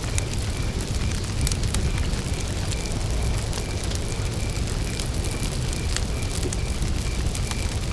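Wood campfire burning, crackling with scattered sharp pops over a steady low rumble. A cricket chirps evenly behind it, about three chirps a second.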